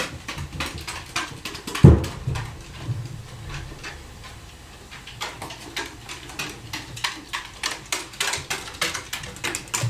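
Many small sharp clicks and taps of tweezers and small metal watch parts being handled during the teardown of a Seiko 6105 automatic movement, with one louder thump about two seconds in.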